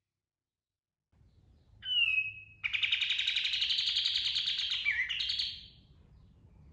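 Kapas tembak (katem) songbird singing: a short falling note, then a long, rapid rolling trill of about three seconds that steps in pitch near its end.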